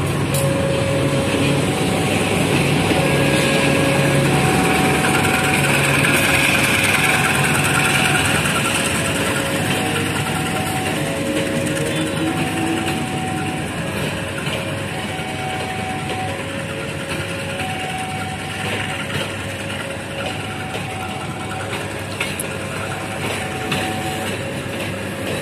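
Passenger train hauled by a CC 203 diesel-electric locomotive rolling slowly past under a track-work speed restriction. It is loudest in the first several seconds as the locomotive's engine goes by, then the coaches' wheels run on. Throughout, a level-crossing alarm sounds a repeating two-tone chime, a lower and a higher tone alternating.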